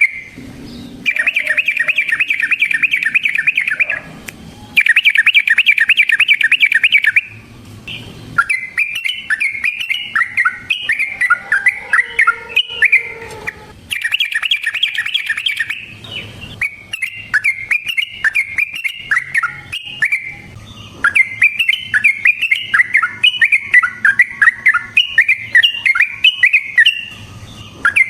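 Yellow-vented bulbul (trucukan) singing loudly, in the lure-recording style. Long, very fast rolling trills about a second in, around five seconds and around fourteen seconds alternate with bubbly, choppy chattering phrases.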